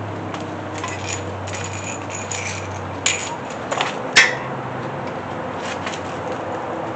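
Loose metal parts and tools clinking and clattering as they are handled, with a few sharper metal knocks about three to four seconds in.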